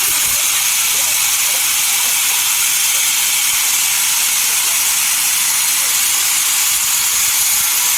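Sawmill saw cutting through a dense desert redwood log, heard as a loud, steady hiss that does not change.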